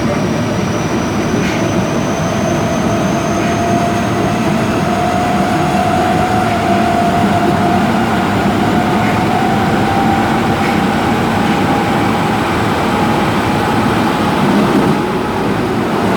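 Osaka Metro 22 series subway train running, heard from inside the car: rumbling wheels and rails under the whine of its Mitsubishi GTO inverter-driven traction motors, the whine rising slowly in pitch as the train gathers speed.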